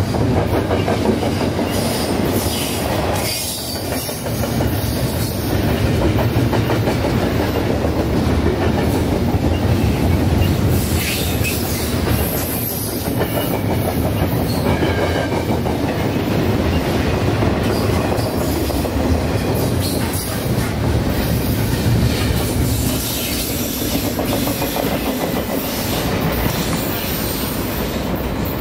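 Double-stack container freight train rolling past at close range: a steady rumble and clatter of its cars' steel wheels over the rails.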